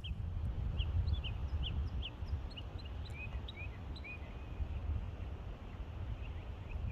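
Small birds chirping in many short, quick notes, thickest in the first few seconds and picking up again near the end, over a louder low rumble.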